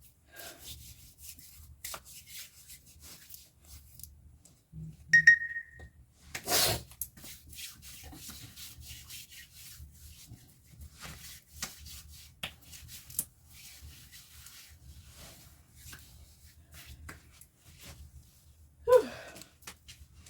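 Rubbing and small handling sounds with scattered light clicks. About five seconds in comes a short high ring, and just after it a brief louder rattle.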